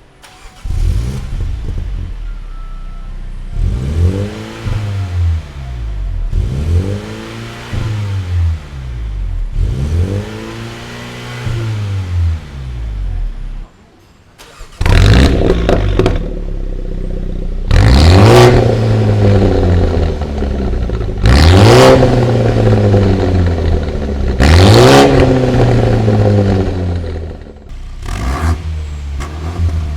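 Mini Cooper JCW GP's 2.0-litre turbocharged inline-four revved in repeated blips through a Veleno valved cat-back exhaust, each rev rising and falling quickly. Three revs about three seconds apart, a brief break about fourteen seconds in, then louder revs.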